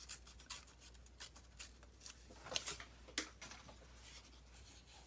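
Paper being handled, a light irregular crinkling and rustling of a book page, with two sharper ticks about two and a half and three seconds in.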